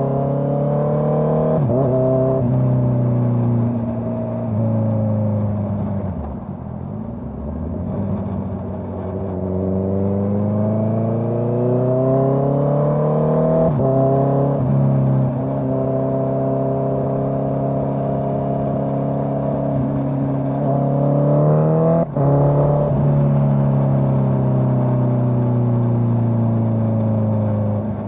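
Honda CBR650R's inline-four engine through a Dominator GP full-system exhaust, heard while riding: revs rising and falling through the gears, with quick upshifts that drop the pitch about two seconds in, around fourteen seconds and around twenty-two seconds. The revs sag once early on, climb steadily, hold, and then fall slowly as the bike slows near the end.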